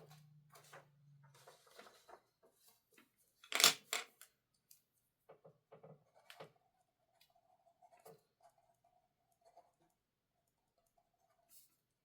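Small handling sounds on a desk: light clicks and taps scattered throughout, with two louder clacks of something set down about three and a half seconds in.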